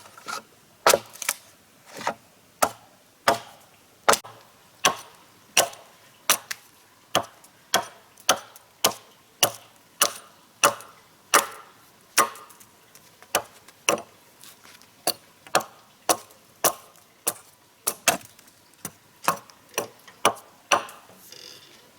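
A hand tool striking wood in steady, repeated blows, about three every two seconds, stopping about a second before the end.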